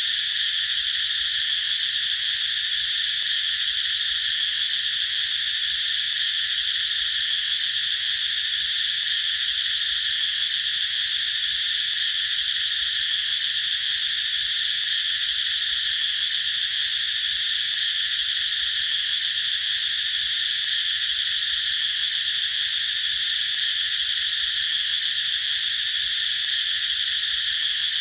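Cicadas singing in chorus: a continuous, steady, high-pitched buzzing drone that never breaks.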